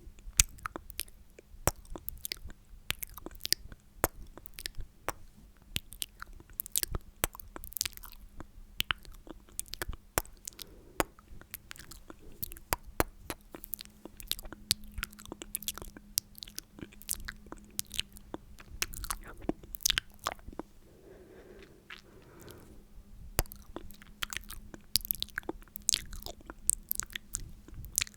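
Close-miked wet mouth sounds: many quick, sticky clicks and smacks of the lips and tongue at an irregular pace.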